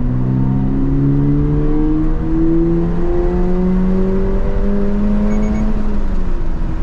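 Bone-stock 2.4-litre FA24 flat-four of a Toyota GR86/Subaru BRZ accelerating under load. The engine note climbs steadily, dips briefly at an upshift about two seconds in, climbs again, then drops as the throttle comes off near the end.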